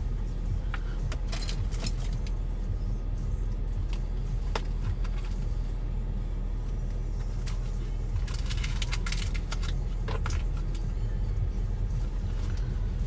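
Car running, heard from inside the cabin as a steady low rumble. Bursts of light jingling and clicking come about a second in and again around eight to nine and a half seconds in.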